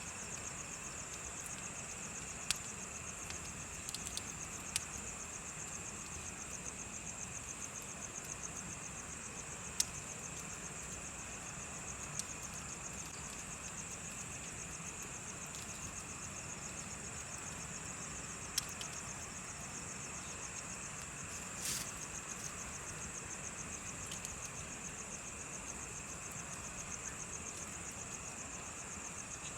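Crickets chirping in a steady, fast high trill, with a second, lower insect song underneath. A bonfire gives off a sharp crackle or pop every few seconds.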